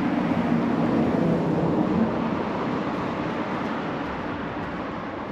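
A motor vehicle's engine and road noise, with a low hum loudest in the first two seconds, then fading away steadily.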